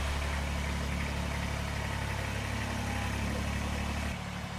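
Kubota BX2380 sub-compact tractor's three-cylinder diesel engine running steadily, dropping a little in level near the end.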